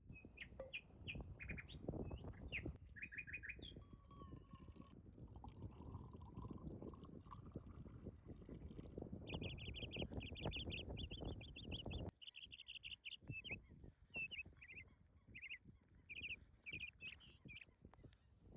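Small songbirds chirping and giving fast, high trills. Under them, through the first two thirds, runs a dense low crackling noise that stops abruptly.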